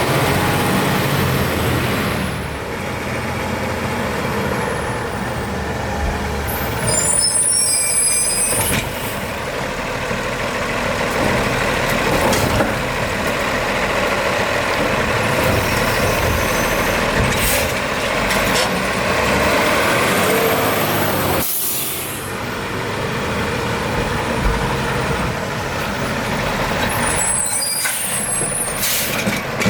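Garbage truck running steadily, with short bursts of air-brake hiss about seven seconds in and again near the end.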